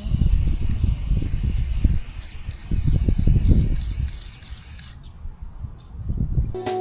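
Aerosol spray paint can hissing steadily, with wind buffeting the microphone; the hiss cuts off suddenly about five seconds in, and piano music starts right at the end.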